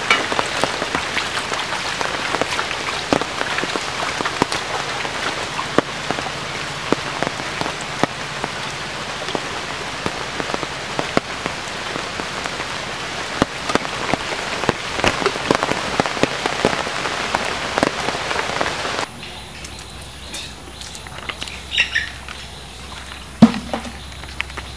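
Steady heavy rain falling on flooded ground and standing water, with many separate drop impacts. About nineteen seconds in it cuts off abruptly to a much quieter background, broken by a few short chirp-like sounds, one near the end sharp and loud.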